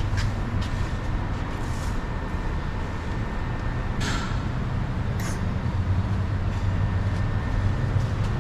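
Exhaust-shop background: a steady low mechanical drone with a few short hissing bursts.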